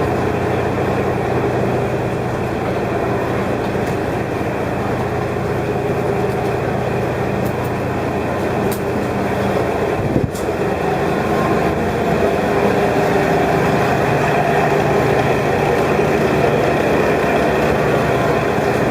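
Steady running noise of a diesel railcar heard from inside the car, an even engine hum and rumble, with a single sharp knock about ten seconds in.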